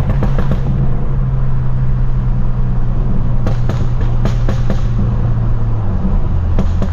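Straight-piped, Stage 2+ tuned BMW F30 328i's turbocharged four-cylinder running with a steady exhaust drone. Three clusters of rapid crackles and pops come from the tune's exhaust burble. The engine note drops lower about six seconds in.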